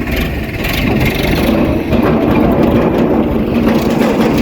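Tractor engine running steadily while driving, a little louder from about two seconds in.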